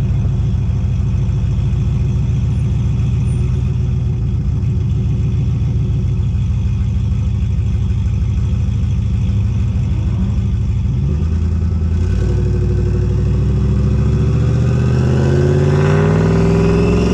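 A vehicle engine runs steadily with a deep pulsing note, then accelerates from about twelve seconds in, its pitch climbing, with a rising high whine near the end.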